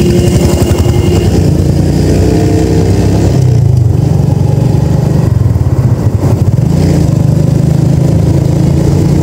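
TVS Metro Plus 110 cc single-cylinder motorcycle engine running under way, its pitch rising and falling with the throttle, with wind rush on a helmet-mounted microphone. A steady high tone sounds over the engine for about the first second.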